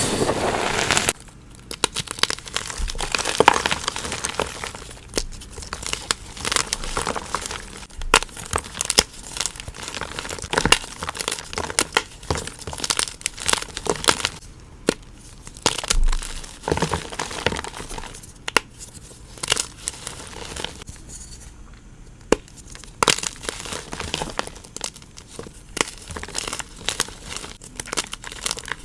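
Soft gym chalk cubes being crushed and crumbled, a dense run of small crunches and crackles that thins out now and then.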